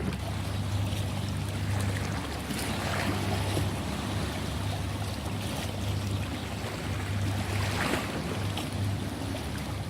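Ocean waves washing in a continuous rush, swelling twice, about three seconds in and again near eight seconds, over a steady low hum.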